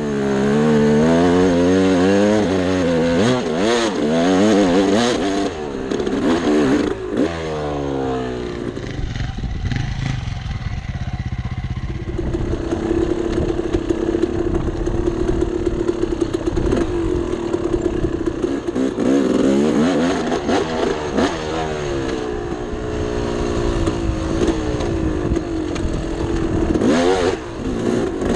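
Two-stroke dirt bike engine being ridden, its revs swinging quickly up and down, then holding a steady pitch for several seconds in the middle before revving up and down again. Scattered clatter runs through it.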